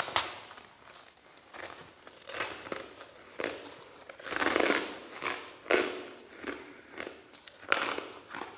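A person chewing soft crushed ice: a run of crunches at an uneven pace, the loudest spell a little past the middle.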